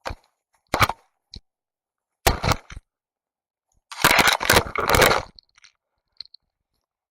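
Airsoft gun firing close by: a couple of single shots near the start, a short burst a little over two seconds in, and a longer full-auto burst of rapid shots lasting over a second about four seconds in.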